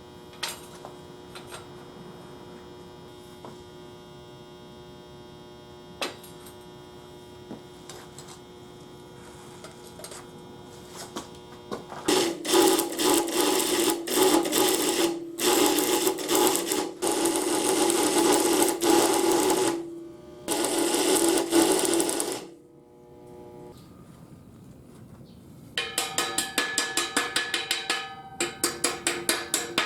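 An electric power tool running with a steady motor hum, then driven hard in three long loud runs, and near the end chattering in fast, even pulses of about four or five a second.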